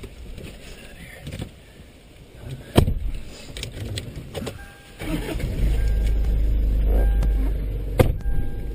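Off-road vehicle lurching along a rough dirt track: scattered knocks and clunks, with a sharp bang about three seconds in. From about five seconds a loud low rumble sets in as it drives on, and there is another sharp bang near the end.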